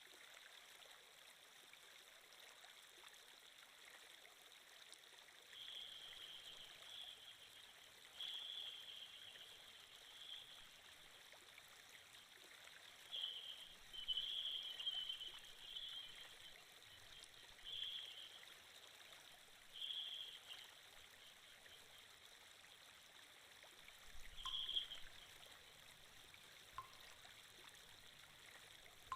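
Flowing-stream water sound effect, faint and steady, swelling louder for a second or so at a time about eight times.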